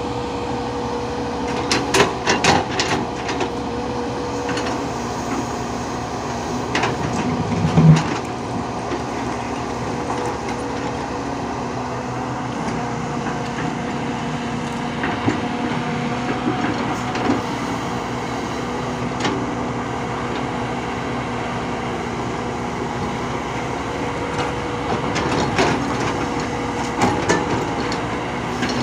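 A machine running steadily with a constant hum, broken by scattered knocks and clanks: a cluster about two seconds in, a louder one near eight seconds, and more near the end.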